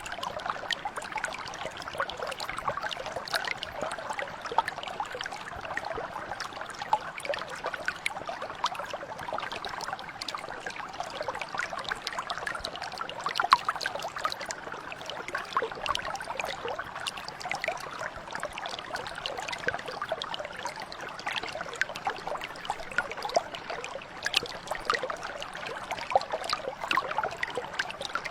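Small stream or brook flowing steadily over stones, with constant babbling and many small splashes and trickles.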